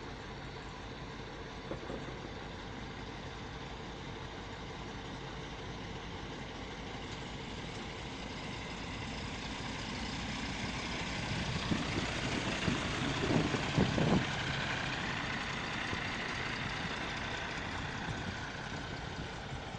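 Heavy vehicle engines running, growing louder through the middle with a rising whine, as in a tractor or truck working under towing load, then easing off. There are several low thumps about 12 to 14 seconds in.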